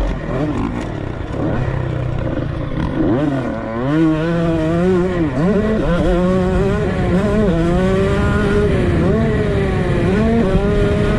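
Two-stroke dirt bike engine, a Honda CR125, revving up and down under throttle as it is ridden, the pitch dipping sharply a few times in the first half and then climbing and holding high.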